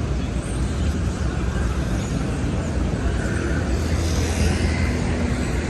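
City street traffic running steadily: a low engine rumble under a constant wash of street noise.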